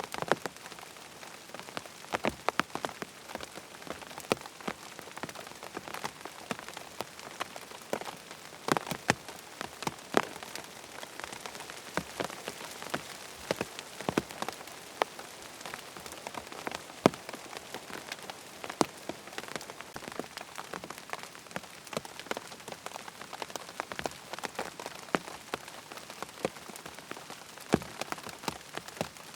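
Rain falling on a tent, a steady hiss of rain with many separate drops tapping sharply on the fabric at an irregular pace.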